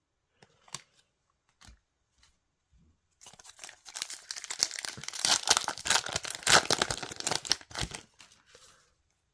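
A foil trading card booster pack being torn open, its wrapper crackling and crinkling for about five seconds, after a few faint clicks of cards being handled.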